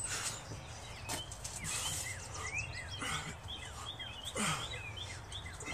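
Outdoor ambience: small birds chirping over and over in short rising and falling calls, several a second, over a steady low hum. A few brief swishes of noise stand out, the loudest about four and a half seconds in.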